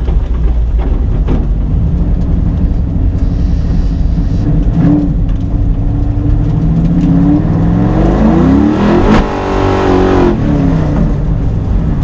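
Drag car engine running, then accelerating hard from about four seconds in, its pitch climbing steadily to a peak about nine seconds in and then falling away.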